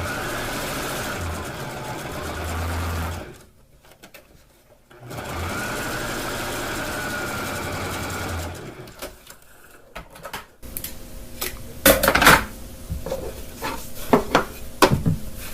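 Electric sewing machine stitching in two steady runs of about three seconds each, with a short pause between them. A few light clicks and knocks follow near the end.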